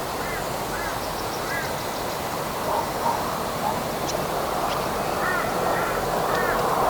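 Birds calling in short, repeated arched notes, a few early and a quick cluster after about five seconds, over a steady rush of breeze.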